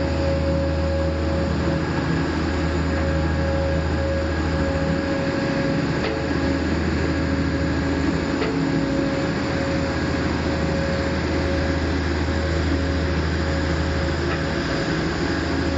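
Diesel engine of a heavy-haulage transporter running steadily: a deep, even drone with a steady whine over it.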